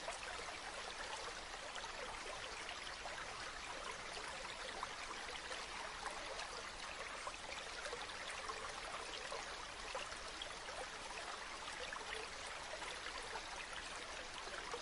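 A river flowing, a steady rushing of water with many small splashes and trickles through it.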